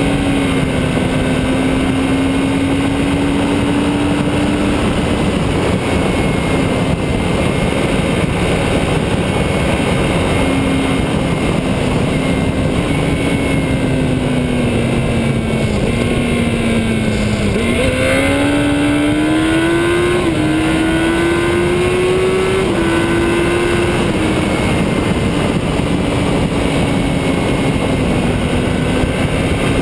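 Motorcycle engine running under way with heavy wind rush over the microphone. The engine note slows a little past halfway, then climbs again in a few steps.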